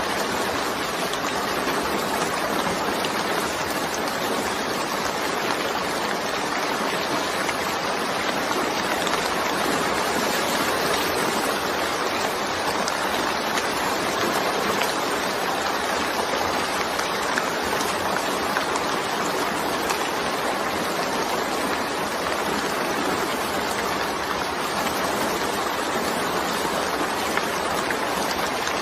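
Steady rainstorm rain falling: a dense, even hiss that does not change, with no separate drops or thunder standing out.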